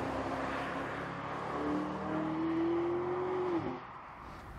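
Audi SQ8's 4.0-litre twin-turbo V8 running under load, its note climbing slowly in pitch for about two seconds, then falling away near the end as the throttle closes.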